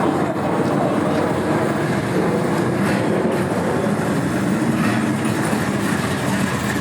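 Car engine running with a steady, dense low rumble.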